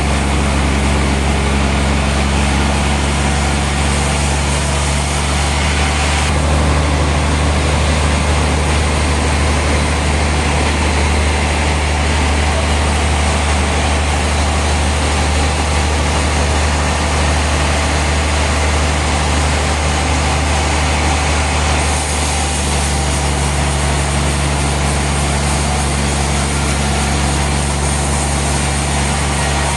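Sawmill machinery running steadily: a loud, constant engine hum under a wide hiss, with slight shifts about six seconds in and again a little past twenty seconds.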